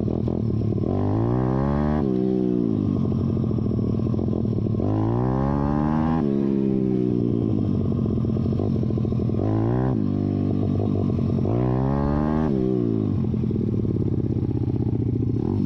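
YCF pit bike's single-cylinder four-stroke engine, its spark arrestor removed, being ridden: the engine note climbs and drops back about four times as the throttle is opened and rolled off.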